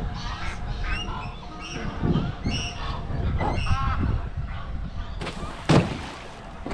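Geese honking, a series of short calls about once a second, with one louder, sharper sound about five and a half seconds in.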